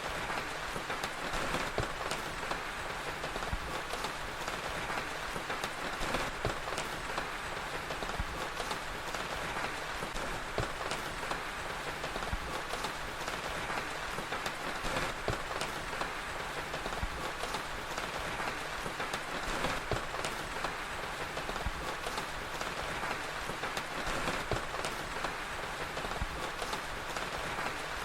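Steady rain falling, mixed with scattered small pops and crackles from a wood fire.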